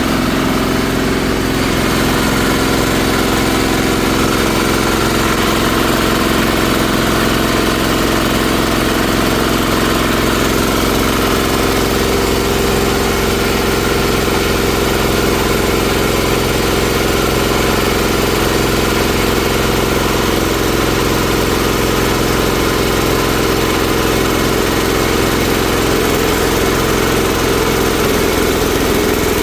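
Multi-purpose shredder-grinder machine running steadily at an even pitch while grinding half-dried water hyacinth through an 8 mm screen.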